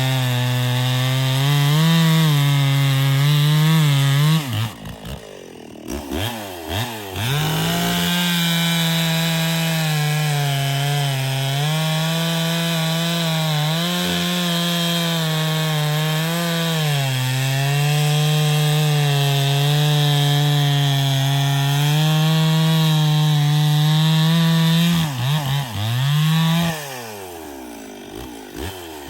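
Echo CS-6700 two-stroke chainsaw running at high revs while cutting wood, its pitch wavering as the chain loads up and recovers. About five seconds in, and again near the end, the throttle is let off: the revs fall away and then climb back up.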